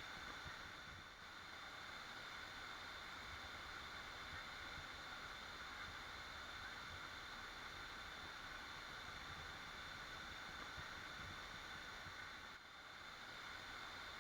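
Waterfall rushing in a steady wash of water noise, dipping briefly about a second in and again near the end.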